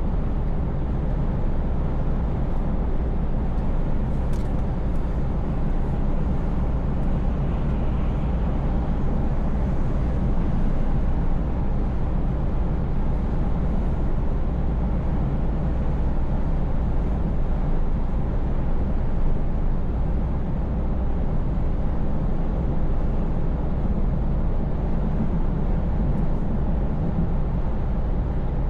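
Scania S580 truck's V8 engine running steadily at cruise, a low even drone with road and tyre noise over it.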